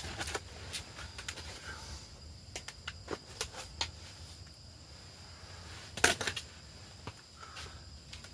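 Scattered small clicks and knocks, like gear being handled, with a louder knock about six seconds in, over a faint steady hiss.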